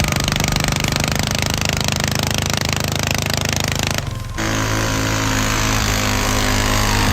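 Loud, rough, rapid-firing engine of a pulling tractor running hard. About four seconds in, the sound breaks off for a moment and resumes as a steadier, more even engine note.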